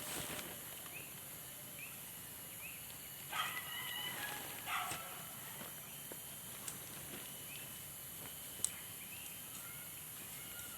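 Outdoor ambience with faint animal calls: a short rising chirp repeats about once a second over a steady hiss, and two louder calls come about three and a half and five seconds in.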